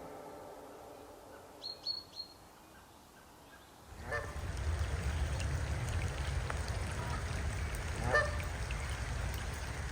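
Two honking waterbird calls, about four seconds apart, over a steady background of outdoor noise that starts about four seconds in. Three quick high chirps from a small bird come about two seconds in.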